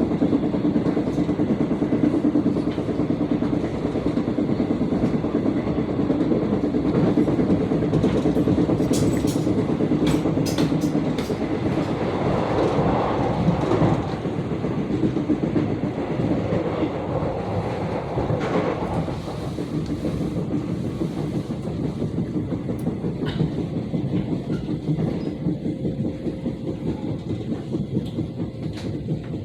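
Commuter electric train running on the rails, heard from inside the car. The wheels thump over and over ("tong-tong-tong") because they have not been reprofiled. The sound grows quieter through the second half, and a faint steady whine comes in near the end.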